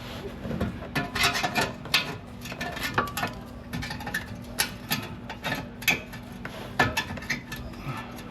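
A brush scrubbing hard at a part in quick, irregular scratchy strokes, to knock off whatever is loose, with a steady low hum underneath. It cuts off suddenly at the end.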